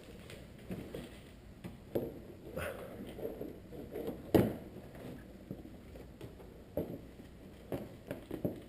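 Irregular knocks and clicks of a car's plastic bumper cover being handled and fitted back into place, with one sharper knock about halfway through.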